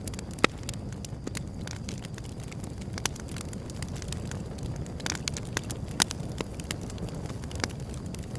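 Wood fire burning with a low steady rumble and irregular crackles and pops, a few sharp snaps standing out about half a second, three and six seconds in.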